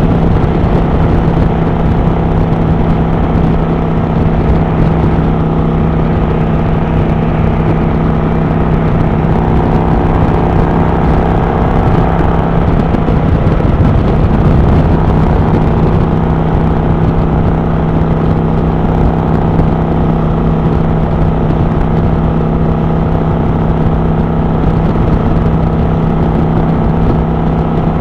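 Kawasaki Vulcan 900 Classic LT's V-twin engine running at a steady cruise, a constant drone over rushing road and wind noise, swelling slightly about halfway through.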